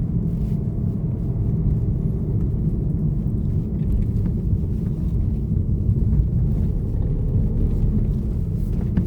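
Car driving, heard from inside the cabin: a steady low rumble of engine and road noise as it takes a turn at a crossroads.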